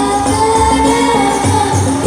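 Banjari music: a voice singing a long, wavering melodic line over hand-struck frame drums (rebana/terbang) keeping a low, repeating beat with jingly percussion on top.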